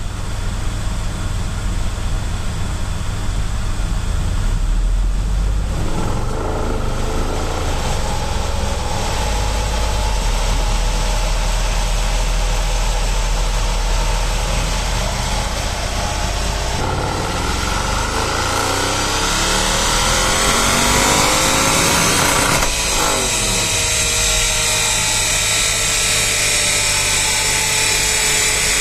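Mercedes C63 AMG V8, remapped for E85 ethanol, running under load: its note holds at a few steady speeds, then rises in pitch for several seconds as it accelerates hard, drops sharply about 23 seconds in, and winds down slowly.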